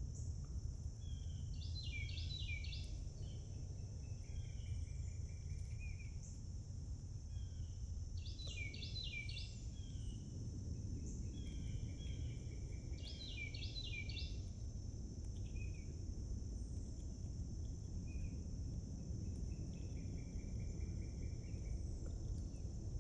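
A songbird singing a short phrase of quick high notes three times, with scattered calls later, over a steady high-pitched drone of insects and a low rumble of background noise.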